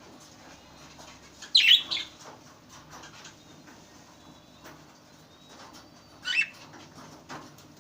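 Pet budgerigars calling: two short, loud, shrill squawks, about a second and a half in and again near six seconds, with faint light clicks and scratching in between.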